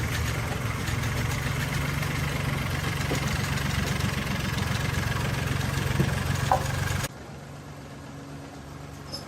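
An engine idling steadily, with a low, even hum; about seven seconds in it drops suddenly to a much quieter level and runs on faintly.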